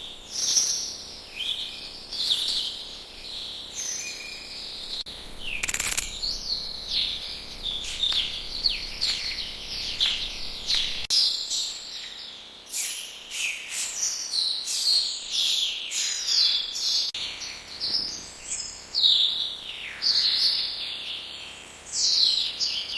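Small birds chirping and twittering continuously, many short high chirps and falling notes overlapping.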